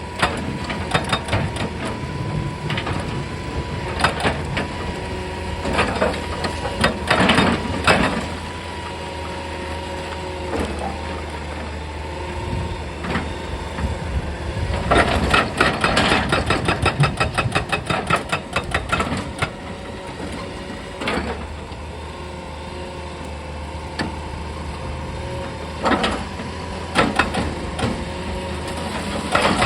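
Excavator working rock: the diesel engine runs steadily under a held hydraulic whine, broken by several bursts of rapid, sharp knocking as stone is struck and broken.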